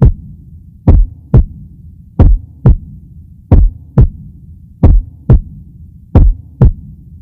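Heartbeat sound effect: paired lub-dub thumps, one pair about every 1.3 seconds, over a steady low hum.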